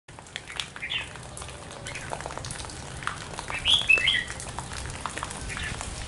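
Bird calls among trees: a short call about a second in, then a louder cluster of falling notes about three and a half to four seconds in, with scattered faint ticks throughout.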